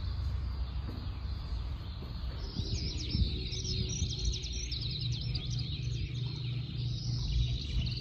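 Small birds chirping in rapid, busy song from about two and a half seconds in, over a steady low rumble.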